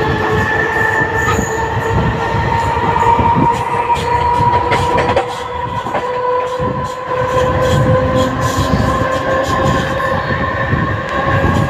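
Mumbai suburban EMU local train running with a low rumble and a steady whine that slowly rises in pitch as it gathers speed. A few clacks from the rails come near the middle.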